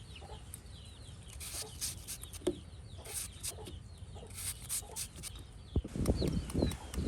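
Chickens clucking, with many small chirping calls throughout. Near the end a sharp knock is followed by a louder stretch of rough, irregular noise.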